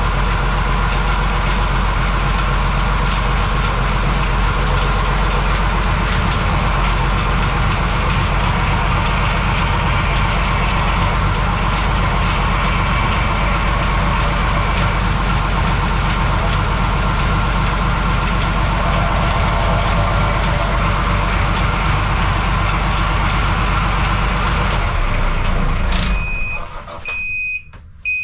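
Marine diesel engine running steadily while it draws antifreeze through its raw-water cooling circuit to winterise it. It shuts off near the end, and a repeated high electronic beep starts at once.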